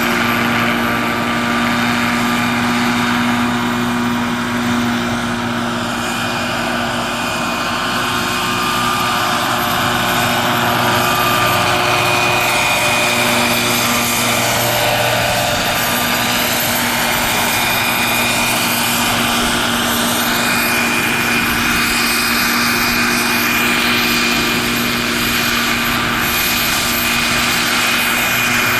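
Radio-controlled scale model helicopter flying, its rotor and drive giving a steady hum with a constant high whine. About midway, several tones sweep up and down as it moves about.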